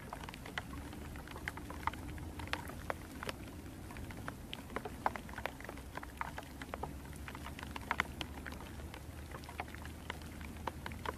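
Pouring rain, with many separate drops ticking irregularly close by over a steady hiss.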